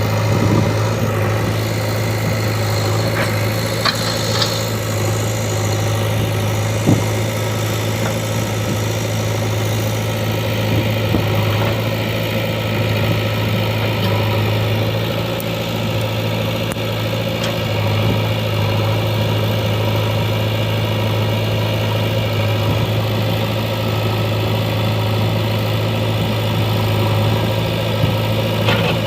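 JCB 3DX backhoe loader's diesel engine running steadily at low speed, with a few faint clicks and one sharp knock about seven seconds in.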